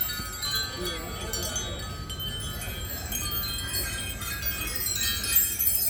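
Hanging wind chime ringing, many sweet, high tones overlapping and struck again and again.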